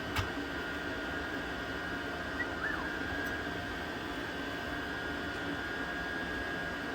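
Rebuilt diesel air heater running with its new fan: a steady whir with a constant high whine, the fan holding an even speed. A single click sounds near the start.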